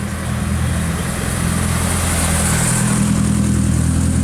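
A vehicle engine running at low, steady revs, growing louder early on and then holding steady as it comes close.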